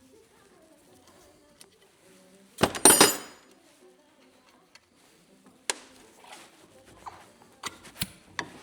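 Metal parts and tools being handled while a coilover is taken apart. A loud clatter of metal-on-metal clanks with a bright ring comes about three seconds in, then a few lighter clinks and taps near the end.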